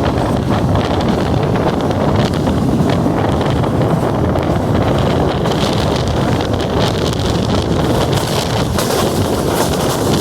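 Passenger train running, a steady rumble heard on board with wind buffeting the microphone.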